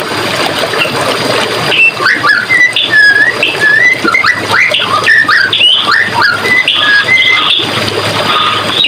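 Running water splashing steadily, with birds singing over it: from about two seconds in, quick sliding whistled notes come thick and fast.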